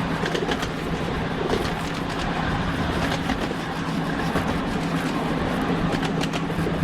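A steady engine hum with irregular clicks and rattles over it.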